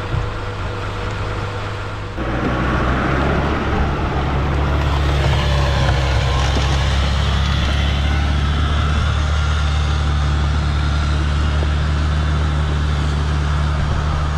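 Heavy off-road truck engine running under load, a steady deep rumble that steps up sharply in loudness about two seconds in.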